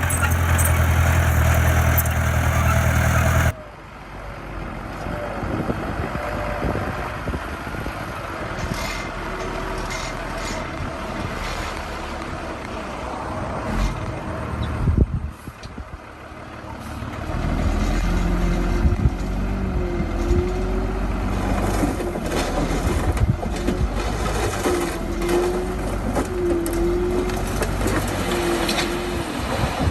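Bulldozer and dump truck diesel engines running as the machines work. The sound changes abruptly about three and a half seconds in and dips briefly around the middle, and in the second half a short wavering squeal repeats several times.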